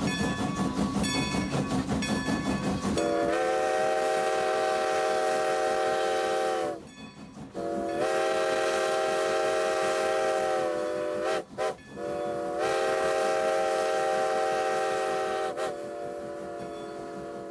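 Steam locomotive chuffing in a steady rhythm, then its chime whistle blowing several long blasts with a short toot between the second and last.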